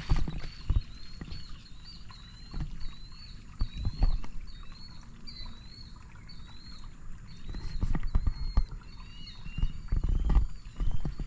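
A bird repeating a short high call about twice a second, over intermittent low rumbling swells, the loudest near the end.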